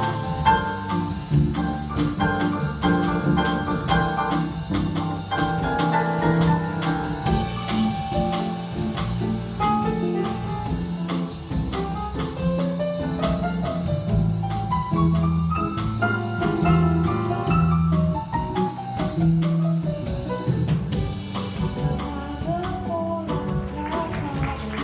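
A live jazz-style band playing: piano, bass and drum kit under a lead melody that rises and falls.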